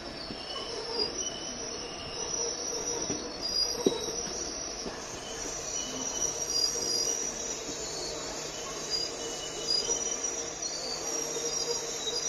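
Train running slowly, heard from on board: a steady running noise with high squealing tones that come and go, and a sharp knock about four seconds in.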